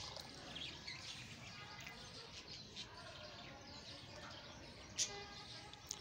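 Faint birds chirping in the background, with two sharp clicks near the end.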